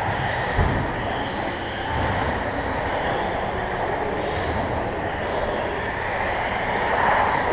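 A pack of 1/10-scale electric RC stadium trucks racing on an indoor carpet track: a steady mix of motor whine and tyre noise rising and falling as they pass, with a short knock about half a second in.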